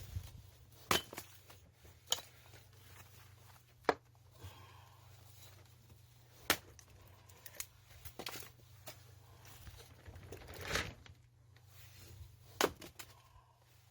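A series of sharp, irregular knocks and clicks, roughly one every second or two, over a low steady hum.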